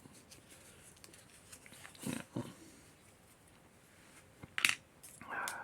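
Quiet handling of small plastic model-kit parts on a workbench: a soft rustle about two seconds in, a sharp click a little after four and a half seconds, and a brief rasping rustle near the end.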